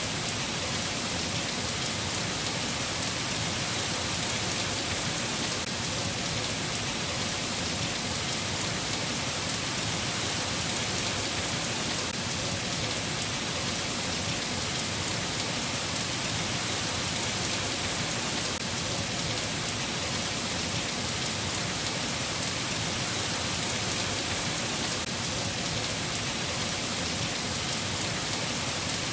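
Steady rain falling, a dense even hiss of drops with no thunder and no change in strength.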